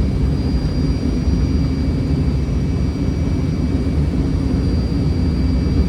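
Steady cockpit noise of a Fokker 100 airliner on short final: a low rumble of airflow and jet engines, with faint steady high-pitched whines over it.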